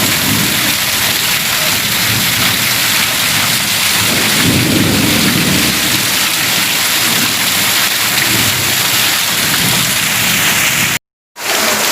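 Heavy rain pouring steadily, with a low rumble swelling about four seconds in and again near the end. The sound breaks off for a moment near the end.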